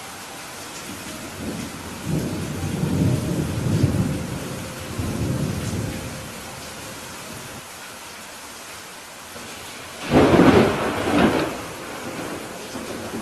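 Steady rain hiss with a low rolling rumble of thunder from about two to six seconds in, then a sudden, louder thunderclap about ten seconds in that cracks twice and rolls off over a couple of seconds.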